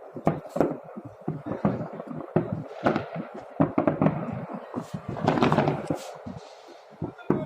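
Fireworks display: a rapid, irregular series of bangs and pops, several a second, thickest about five seconds in, with a short lull near the end.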